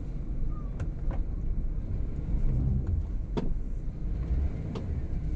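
Van running with a steady low rumble, with a few short sharp clicks scattered through it.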